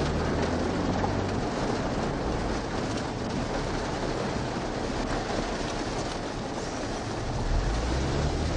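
Steady rushing noise over a low vehicle engine hum, the hum strongest near the start and again near the end.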